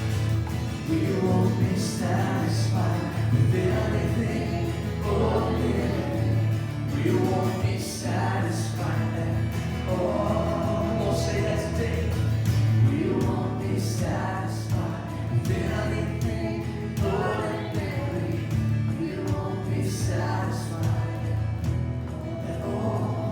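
Church worship music: a group of voices singing with a band, over a steady bass line.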